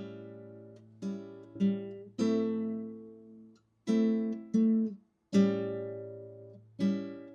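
Acoustic guitar music: plucked chords struck every half second to a second, each ringing and fading before the next.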